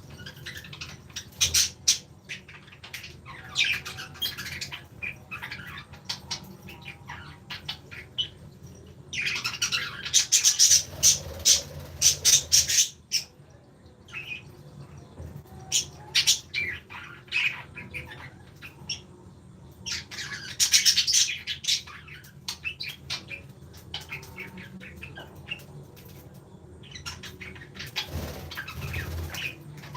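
Small cage birds chirping and squawking in busy, overlapping calls. The chatter swells into two loud bursts, about ten seconds in and again around twenty seconds in.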